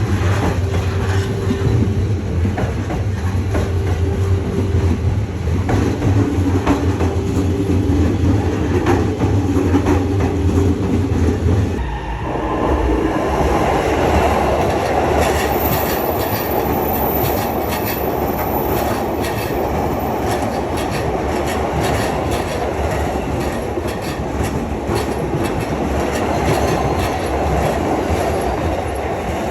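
Train running on rails, its wheels clicking over the rail joints. About twelve seconds in, a low hum with intermittent tones gives way to a louder rushing noise.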